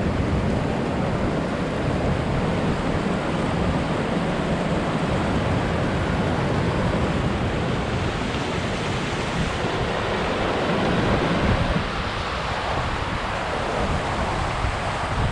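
Waterfall water rushing steadily. It becomes a little thinner in the low range about twelve seconds in.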